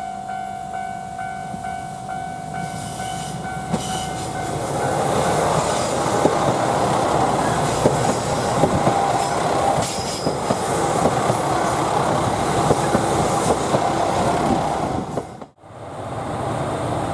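A repeating electronic ding sounds about twice a second; then, from about five seconds in, a 2000 series diesel train passes close by, its wheels clacking over the rail joints. The sound drops out briefly near the end and then carries on.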